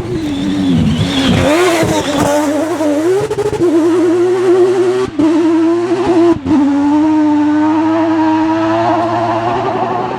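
Mazda rotary engine of a Peugeot 205-based rally prototype at high revs: the pitch swoops up and down for the first few seconds, then holds high and steady with two short cuts at gear changes.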